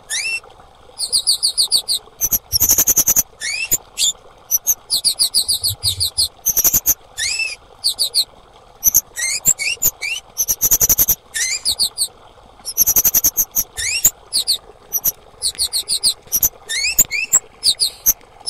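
Female kemade bird calling: quick bursts of very high, rapid chirps and trills, mixed with short rising whistles, repeated one after another with brief pauses.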